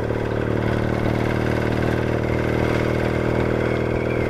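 Yamaha XS650 air-cooled parallel-twin motorcycle engine running steadily while cruising, a little louder from about half a second in.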